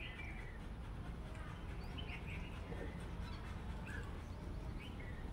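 Faint, scattered short bird chirps every second or two over a steady low background rumble.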